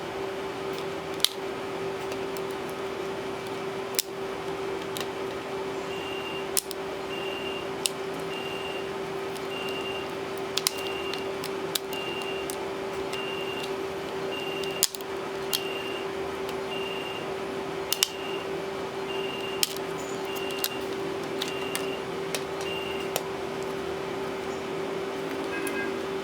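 Scattered sharp clicks and snaps of tools working on a Samsung Galaxy Note 8.0 tablet's casing, over a steady hum. A faint high tone pulses about twice a second from about six seconds in until near the end.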